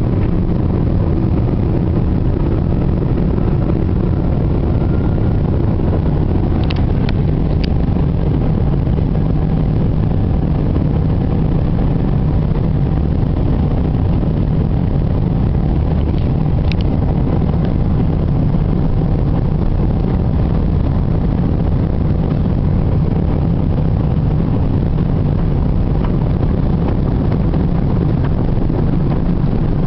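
Steady cabin noise of a Boeing 777-300 on takeoff: a loud, even low rumble of the jet engines and airflow heard from inside the cabin, with a few faint clicks.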